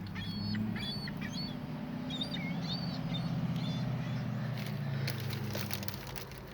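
Gulls calling: many short, high squealing calls, most of them in the first three seconds or so. Under them runs a steady low drone that cuts off suddenly near the end.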